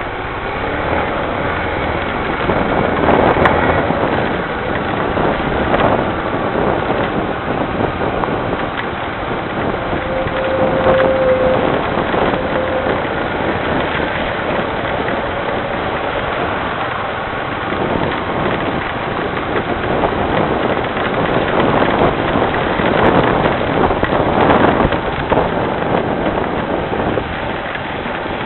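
Rain falling steadily, with vehicles passing on the wet street every few seconds. A brief tone sounds about ten seconds in.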